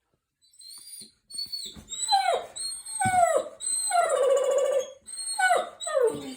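A dog giving a string of about six whining, howl-like calls, each sliding down in pitch, the one near the middle held longer than the rest.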